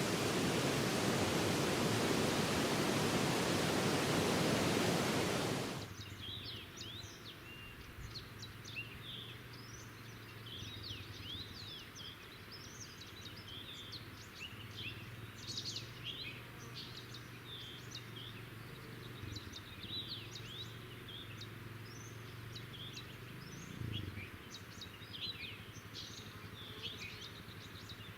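Rushing water of a swollen spring river for about six seconds, cutting off abruptly. Then many small birds sing and chirp over a quiet background.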